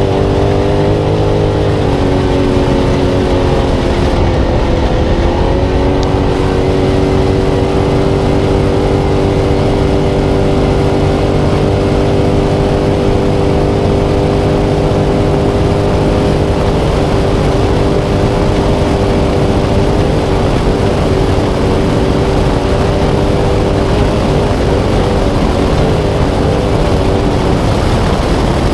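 Spec Trophy Truck's V8 engine running hard at high, fairly steady revs, its pitch dipping briefly a few seconds in and then holding, over loud driving noise.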